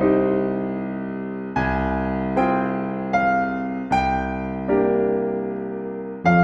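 Slow, gentle solo piano music: soft chords and single notes struck about every second and left to ring and fade.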